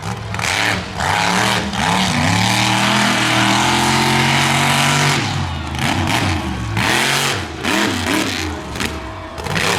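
Monster truck engine revving hard: short bursts of throttle near the start, held wide open for about three seconds, then blipped up and down several times.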